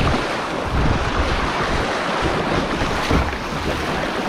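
Rushing river water through a small rapid, a steady loud rush, with wind buffeting the camera microphone as uneven rumbling underneath.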